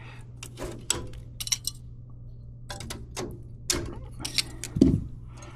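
Irregular metallic clicks and scrapes of aluminum coil fins being worked and torn off copper tubing with a hand tool, over a steady low hum.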